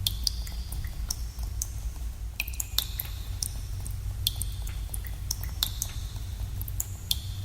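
Water drops falling irregularly in a cave, each a sharp plink, some ringing briefly with a clear high note, over a steady low rumble.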